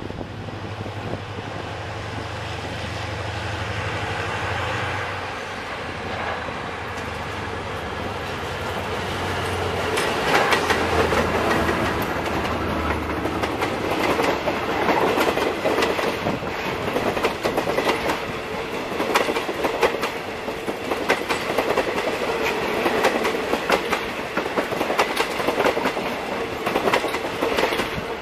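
State Railway of Thailand passenger train hauled by a GE CM22-7i diesel-electric locomotive passing close by. The locomotive's engine hum comes in first and grows louder. About ten seconds in, the coaches start rolling past with a busy clickety-clack of wheels over the rail joints.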